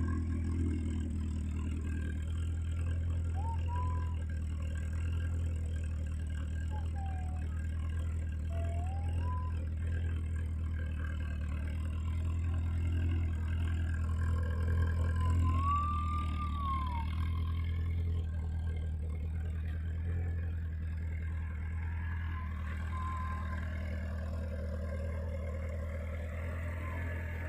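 VW Golf Mk1's four-cylinder petrol engine idling steadily at an even speed.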